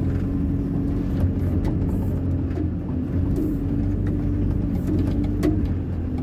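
Hyundai 140 wheeled excavator's diesel engine running steadily at a constant speed, with a few short clicks over it.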